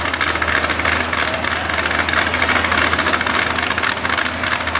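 Mud truck engine idling steadily, with a constant low hum under a dense hiss.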